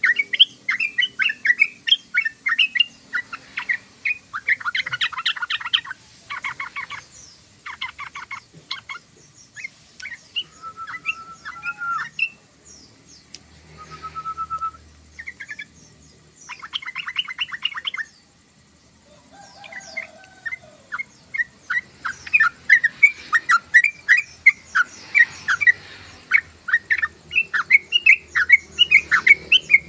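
Yellow-vented bulbul (trucukan) chattering: fast runs of sharp chirps, broken in the middle by rattling trills and a few short whistled notes, with a brief pause a little past halfway.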